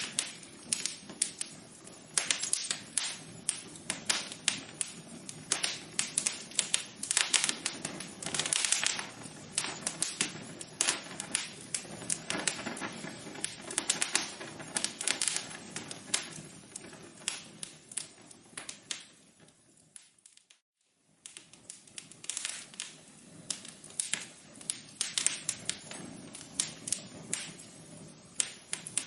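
Wood fire crackling in a fireplace: a steady run of irregular sharp pops and snaps over a soft hiss. About two-thirds of the way through it fades out for a moment and then comes back.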